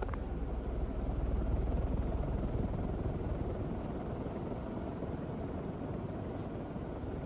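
Harbor Breeze Cefiro ceiling fan running: a steady, low whoosh of moving air, with one faint click at the very start.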